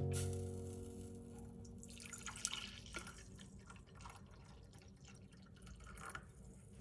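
Faint dripping water with scattered light clicks, while a sustained music chord fades out in the first second.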